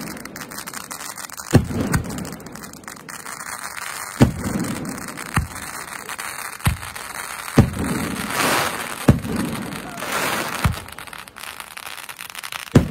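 Aerial fireworks bursting overhead: about eight sharp bangs at irregular intervals, each with a short echo. A stretch of hissing crackle comes about two-thirds of the way through.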